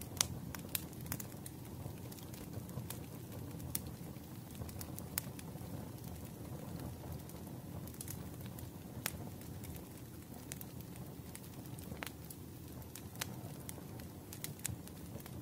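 Wood fire crackling: irregular sharp pops and snaps over a steady low rush of the burning fire.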